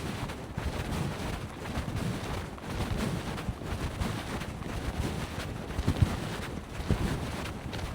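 Wind buffeting the microphone in an uneven, gusty low rumble over a steady rushing hiss, with one sharper bump about six seconds in.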